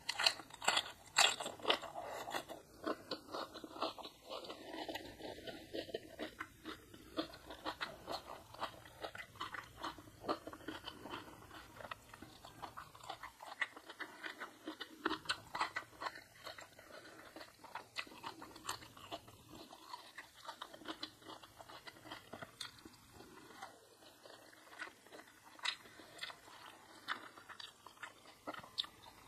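A person chewing food with many crisp crunches, the sharpest and loudest in the first couple of seconds.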